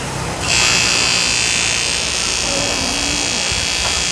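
Hand-held power tool switched on about half a second in, then running steadily with a high-pitched whine.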